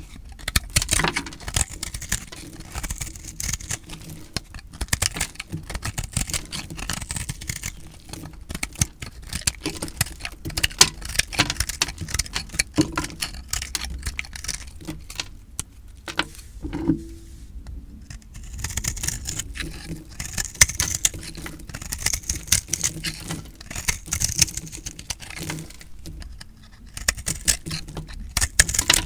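Recycled soap being cut with a blade, a dense crunchy crackle of many small clicks, with a couple of short pauses between cuts.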